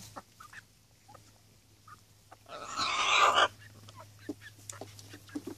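A bird's single harsh squawk, about a second long, halfway through.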